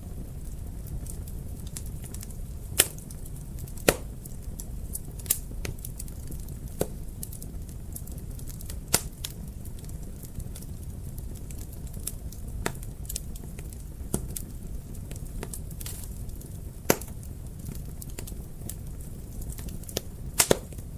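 Fireplace fire crackling over a steady low rumble of flames, with irregular sharp pops; a few stand out louder, including a quick cluster near the end.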